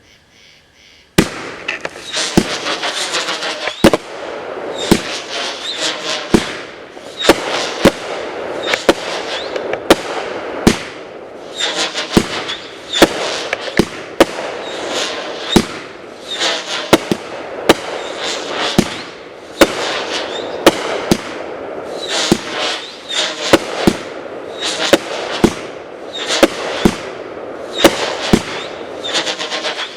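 A 500 g fireworks cake, Brothers Fireworks' Parrots Prattle, firing its shots about once a second, starting about a second in. The shots are whistling 'birds' that fill the gaps with a continuous, overlapping chatter of whistles.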